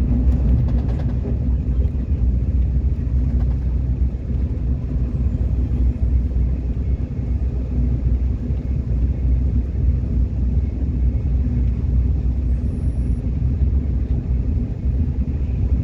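Subway train running, a steady low rumble heard from inside the car.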